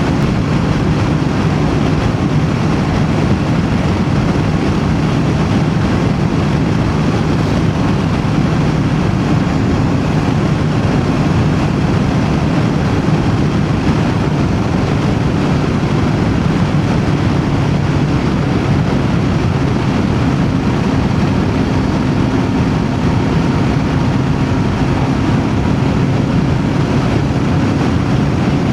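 Voge DS525X parallel-twin motorcycle engine running steadily at road speed, mixed with wind and road noise on the rider's microphone.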